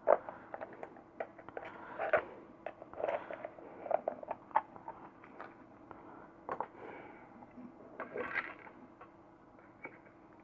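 Irregular light clicks and short scrapes of hands working a plastic LED bulb housing, undoing its clips to pull the driver board out.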